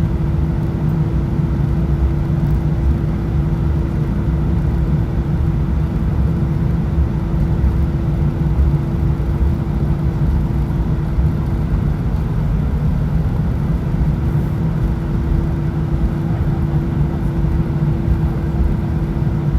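Steady cabin noise of an Airbus A319 with its engines running: a low rumble with a steady hum over it.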